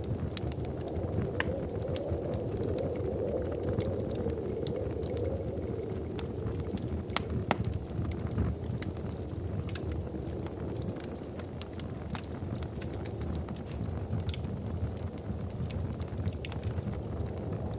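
Wood fire burning in a fireplace: a steady low rush of flames with frequent sharp crackles and pops scattered irregularly throughout.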